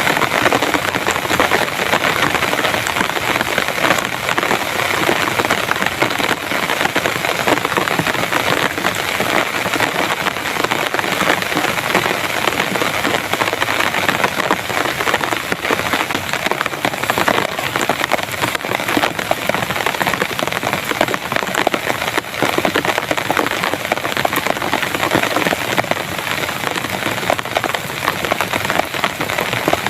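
Very heavy rain pouring down steadily, a dense, even patter of countless drops striking the surfaces around.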